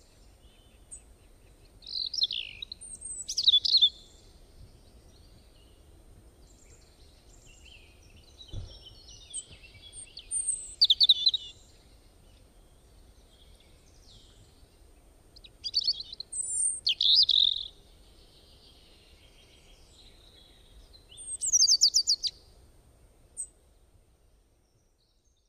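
Birds calling in short bursts of quick chirps and whistles, four bursts a few seconds apart, over a faint steady high-pitched tone. A soft low thump comes about eight and a half seconds in.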